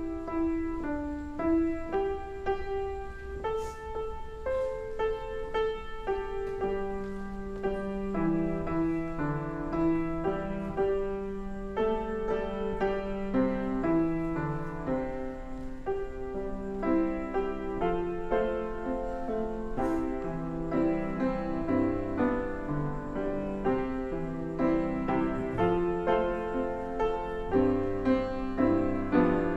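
Piano playing slow, sustained chords and a melody, with a lower bass line joining about seven seconds in.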